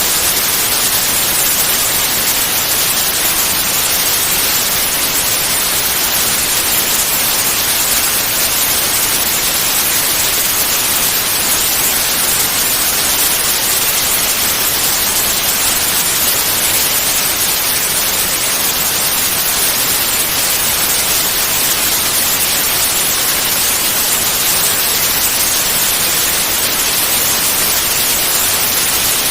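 Continuous white noise: a steady, even hiss that is loudest in the highs and never changes.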